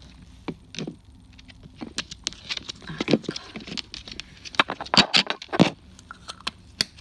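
Hands handling the spider's shipping packaging: tissue paper rustling and crinkling among quick clicks and taps, with the loudest cluster about five seconds in.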